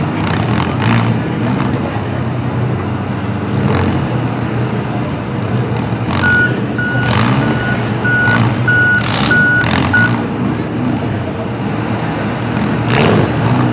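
A vehicle's reversing alarm beeping about twice a second, seven beeps in a row a little under halfway in, over the steady running of engines. Several short, sharp noises come through as well.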